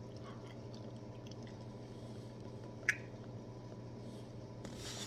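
Faint chewing of a gummy candy, with small wet mouth clicks and one sharper click about three seconds in, over a steady low hum. A short hiss near the end.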